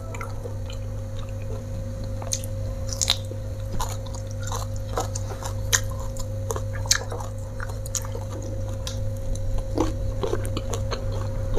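Close-miked chewing and mouth sounds of a person eating rice with sambal and raw leafy greens by hand, with scattered small wet clicks and light crunches. A steady low hum runs underneath.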